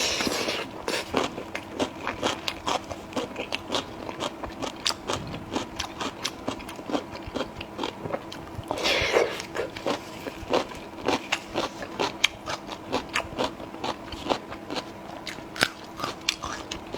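Close-up crunchy chewing of cabbage: a steady run of crisp crunches, with louder, longer bites right at the start and about nine seconds in.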